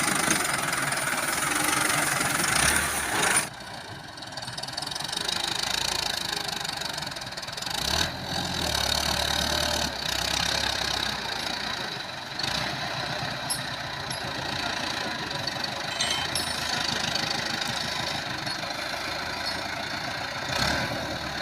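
Massey Ferguson 385 tractor's diesel engine running under work, its low drone swelling and easing, with a sudden drop in level about three and a half seconds in.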